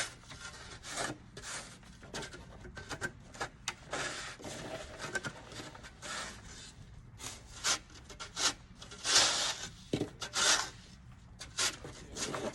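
Snow shovel scraping packed snow in a series of irregular strokes mixed with short knocks; the loudest, longest scrape comes about nine seconds in.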